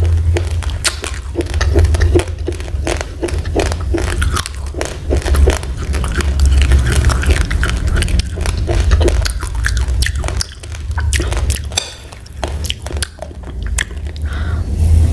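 Uncooked rice being chewed close to the microphone: a rapid, irregular run of dry crunches as the grains crack between the teeth, easing off for a moment a little before the end.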